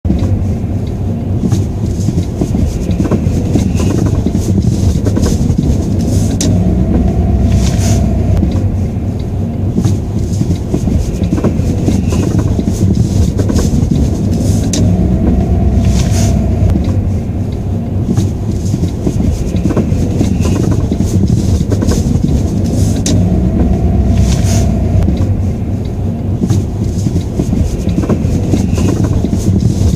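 Lada Vesta on the move: steady low rumble with repeated short knocks, the knock being recorded as a suspected fault.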